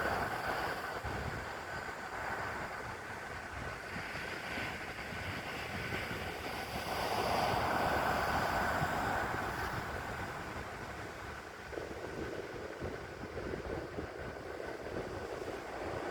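Ocean surf crashing on the beach, a steady rushing roar that swells to its loudest about seven seconds in as a big wave breaks and sprays, then eases off. Wind rumbles on the microphone underneath.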